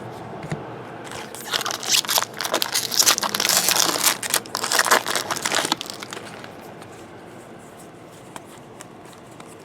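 Plastic wrapper of a Bowman Draft trading-card pack being torn open and crinkled, starting about a second and a half in and lasting about four seconds, then dying down to faint handling.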